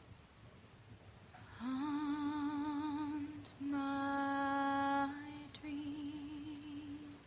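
A single unaccompanied voice sings three long held notes on about the same pitch after a second and a half of quiet; the first and last waver with vibrato and the middle one is held straight.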